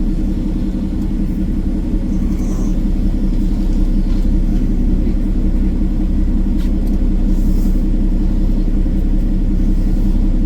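Peterbilt 389 semi truck's diesel engine running with a steady low rumble while the truck creeps into a parking spot at low speed.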